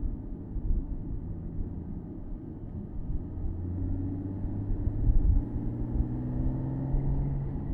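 Porsche Boxster S flat-six engine pulling on the road, heard from the open-top cabin over low road and wind rumble. The engine note jumps higher about five seconds in, then climbs slowly as the car gathers speed.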